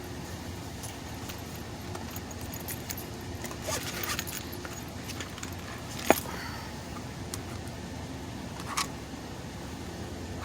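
A single sharp shot from a .22 Brocock PCP air rifle about six seconds in, with a smaller click near the end, over a steady background hum and light metallic jingling.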